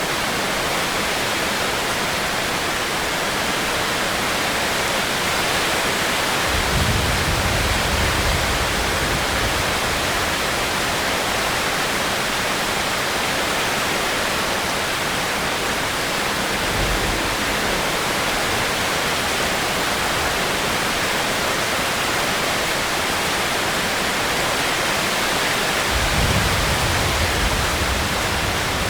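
Heavy rain falling steadily as an even hiss, with low rumbles swelling up three times: once for a few seconds about a quarter of the way in, briefly just past halfway, and again near the end.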